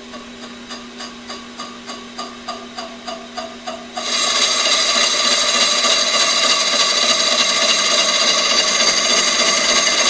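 Brake lathe turning a flywheel. The cutting bit ticks against the face about four times a second at first. About four seconds in it bites into full contact, and the cut becomes a loud, steady, high metallic ringing. The flywheel has heat-hardened hot spots from the clutch, and the cut is audibly different where it passes over them.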